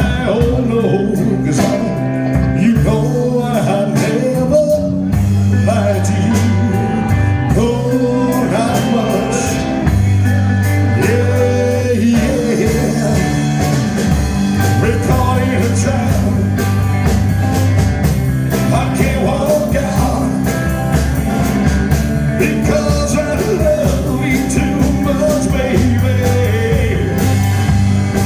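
Band playing rock and roll music with a steady bass line and a bending lead line, with no clear lyrics.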